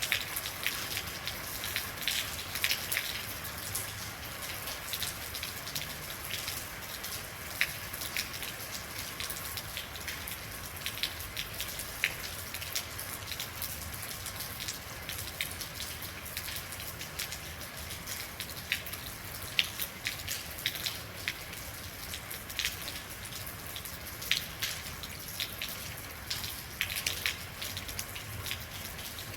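Rain falling steadily, with a constant hiss and many separate drops striking a hard surface, heard as irregular sharp ticks and taps.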